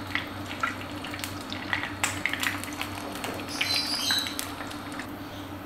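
Bread slices shallow-frying in hot ghee in a non-stick frying pan: a steady sizzle with scattered small crackles and pops. It grows briefly louder about four seconds in, as another slice goes into the fat.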